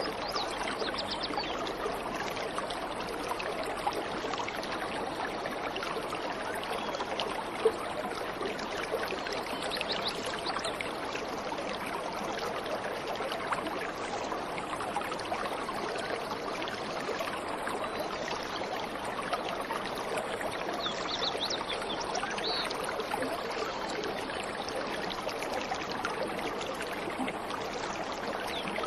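Steady rushing of a waterfall, its water pouring and splashing without a break, with a few faint high bird chirps now and then.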